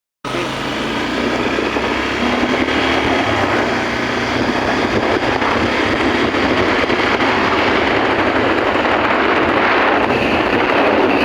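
Waterfall water rushing in a loud, steady roar.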